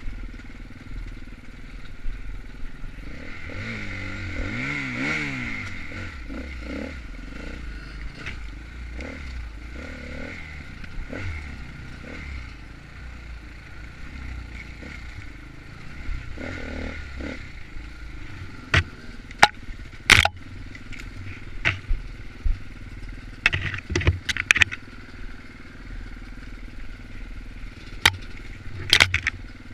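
Enduro dirt bike engine running and revving up and down, with a run of sharp knocks and clatters in the second half.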